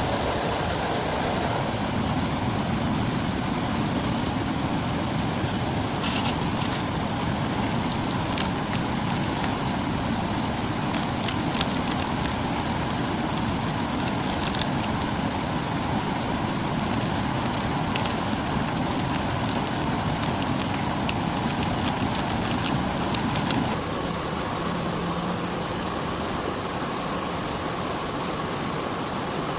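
Heavy rain falling steadily, a dense hiss with scattered sharper drop ticks; it eases slightly about 24 seconds in.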